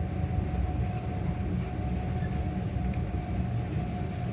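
Metra commuter train rolling along, heard from inside a passenger car: a steady low rumble with a faint, unchanging high note running over it.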